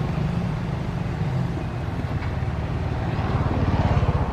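A motor vehicle engine running, its low pulsing hum growing louder near the end.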